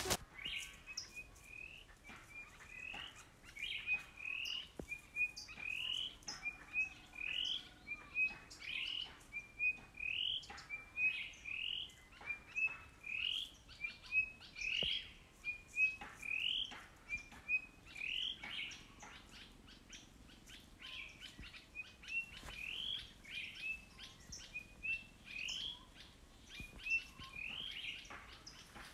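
A bird singing the same short phrase over and over, about once a second: a couple of quick chirps and then a rising note.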